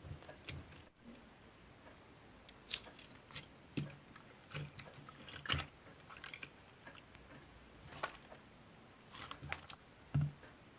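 Clear slime being worked and squeezed by hand, giving irregular sticky pops and clicks, two of them louder than the rest.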